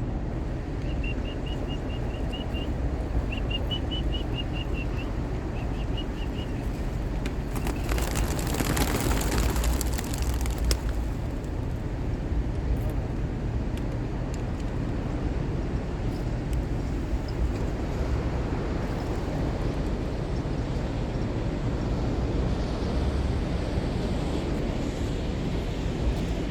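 A flock of racing pigeons released from their transport crate makes a two-second rush of wingbeats about eight seconds in. Under it runs a steady low rumble, and a few short high chirps sound in the first seconds.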